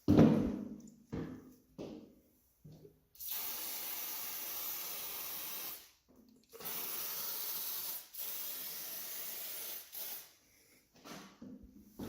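An aerosol can of garage door lubricant spraying in long hissing bursts of two to three seconds each, three in a row and then a short one, as the door's joints are lubricated against squeaking. A few knocks come first, the first ringing briefly.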